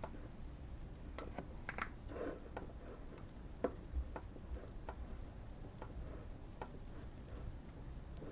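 Typing on a Keychron Q1 mechanical keyboard, modded with tape and foam: scattered, irregular keystrokes, with a short flurry between about one and two and a half seconds in. Light fire crackling underneath, small sharp pops throughout.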